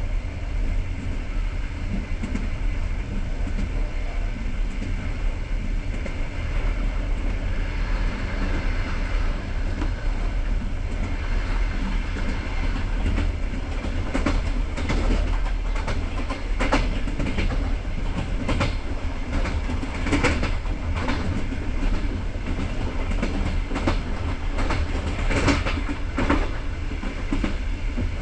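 A passenger train rolling along the track: a steady low rumble with wheels clacking over rail joints, the clacks sharper and more frequent from about halfway on.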